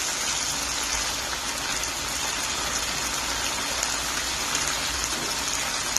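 Chicken pieces with shrimp paste, tomato and green peppers sizzling steadily in a pan of oily sauce.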